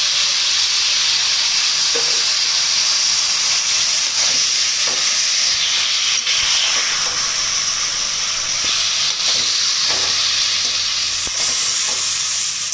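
Chopped tomatoes sizzling loudly and steadily in hot oil in a kadai. A perforated ladle stirs them and scrapes or taps against the pan a few times.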